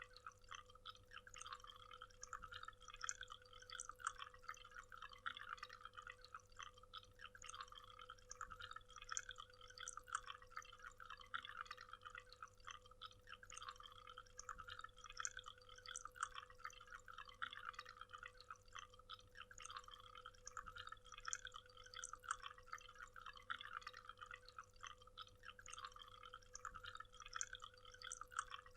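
Faint waterfall: water splashing and trickling in a dense, constant patter of drips and splashes, with a steady low hum underneath.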